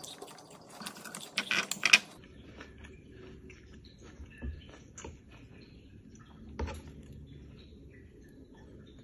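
Crisp apple slice being chewed: a quick run of loud crunches in the first two seconds, then quieter chewing and small clicks of food being handled, with one sharper knock about two-thirds of the way through.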